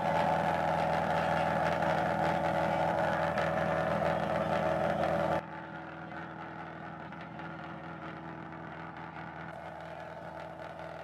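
Fiat Panda engine running at a steady speed, a constant mechanical hum. About five seconds in it cuts abruptly to a quieter, steady hum.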